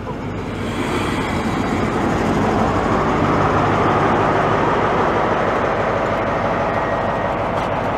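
Class 43 HST diesel power car engine running loud at the platform, swelling over the first couple of seconds and then holding steady.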